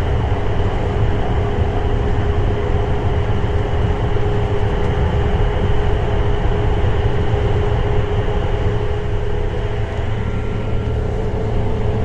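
German ICE high-speed train running at speed, heard from inside the car: a steady rumble with a constant hum over it.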